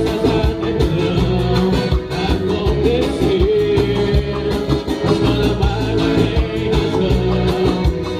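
Live band music with a steady beat, a bass line and a melody line, in a Latin American style, with some singing.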